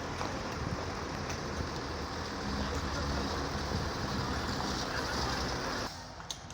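Heavy diesel machinery engine running steadily with a broad hiss over a low rumble. It grows louder about halfway through, then drops away suddenly near the end.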